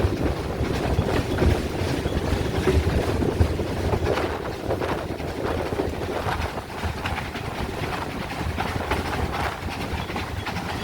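Steam train running past, its GWR 2-8-0 tank locomotives working, with rail and wheel noise and irregular low pulses.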